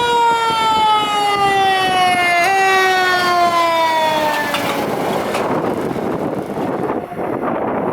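Fire engine siren holding one long tone that falls slowly in pitch, with one brief step back up. About halfway through the tone fades out into a loud, even rush of wind and road noise.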